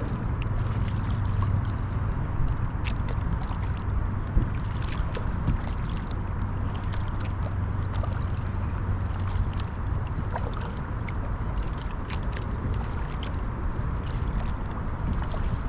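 Kayak being paddled: water splashing and dripping off the paddle blades in many small ticks and splashes, over a steady low rumble.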